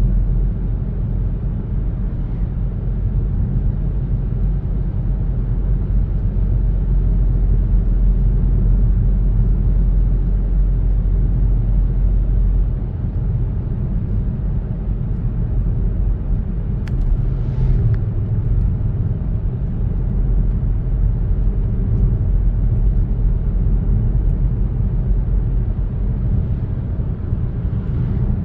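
Car driving at a steady pace: a continuous low rumble of engine and tyre road noise. A single brief click is heard about two-thirds of the way through.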